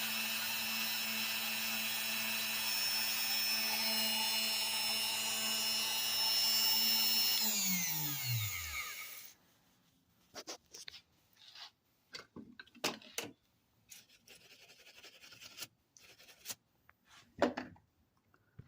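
Router spindle on a Piranha FX CNC running at speed with a steady whine, then switched off about seven and a half seconds in and spinning down, its pitch falling until it stops; the carving is finished. A few light clicks and knocks follow.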